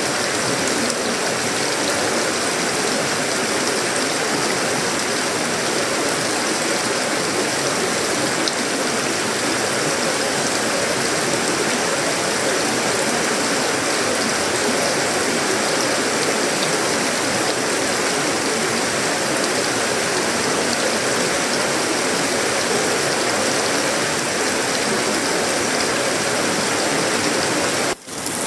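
Heavy tropical rain falling steadily on a sheet-metal roof, wood and leaves: a dense, even patter. It cuts out for a split second just before the end.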